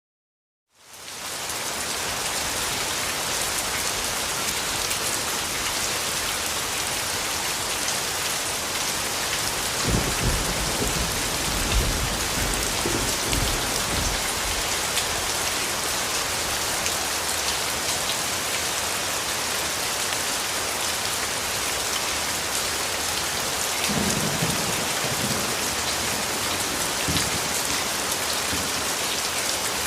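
Steady heavy rain, an even hiss that fades in quickly after a second of silence. Low rumbles of thunder come about ten seconds in and again about two-thirds of the way through.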